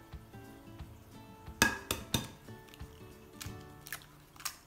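An egg tapped three quick times against the rim of a glass mixing bowl to crack it, followed by a few fainter clicks as the shell is broken open, over soft background music.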